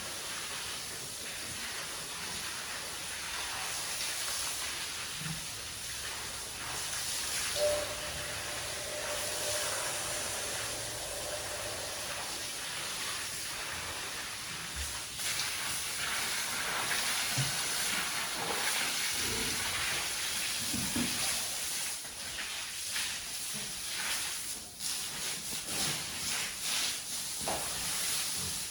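A steady hiss throughout, with a short faint tone about eight seconds in and a few soft knocks in the second half.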